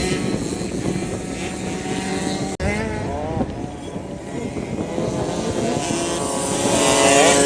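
Motocross bike engines revving, their pitch rising and falling repeatedly with throttle and gear changes, louder near the end. The sound cuts out for an instant about two and a half seconds in.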